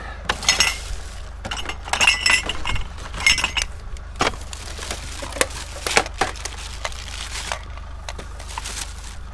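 Scrap and electronics being moved about in a kerbside rubbish pile: irregular clinks, knocks and rattles, the sharpest ones in the first few seconds, over the steady low hum of an idling vehicle engine.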